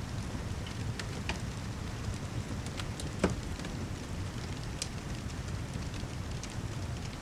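Steady heavy rain over a low rumble, with a wood fire crackling in scattered sharp pops, one louder pop a little past the middle.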